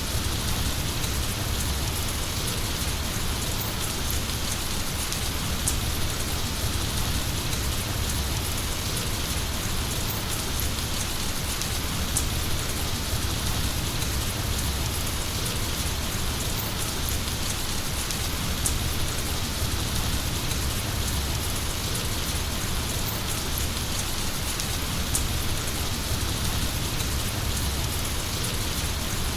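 Heavy rain falling steadily, a dense even hiss of drops with a low rumble beneath.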